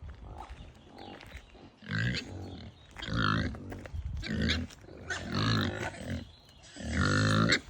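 Pigs grunting: a run of five loud, low grunts about a second apart, the last one drawn out longest.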